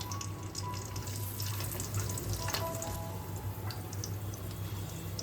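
Cashews and raisins frying in hot ghee and oil in a pan: a steady sizzling hiss with scattered small crackles.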